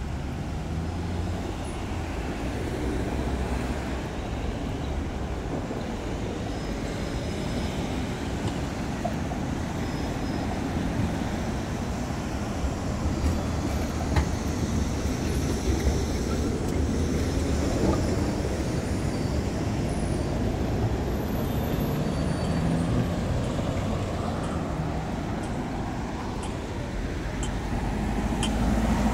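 Steady city road traffic: the continuous rumble of passing cars and other vehicles.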